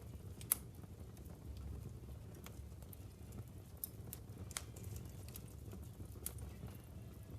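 Wood fire burning in a fireplace: a low steady rumble of the flames with irregular sharp crackles and pops from the logs, the loudest pop about half a second in.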